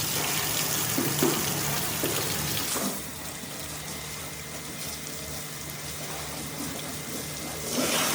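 Water spraying onto a car during washing, a loud steady hiss. It cuts out about three seconds in and starts again near the end, with a low steady hum underneath.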